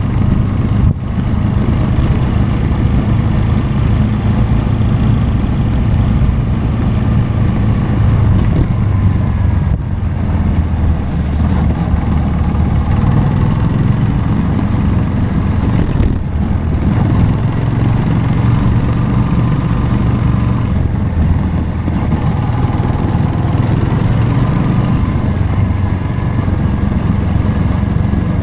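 Motorcycle engine running steadily while riding, its pitch rising and falling a little with the throttle.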